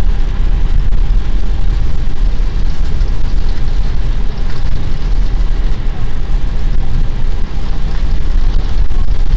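Loud, steady rumble and rush of air-and-engine noise inside an Airbus A320 cockpit, heaviest in the low end and without breaks.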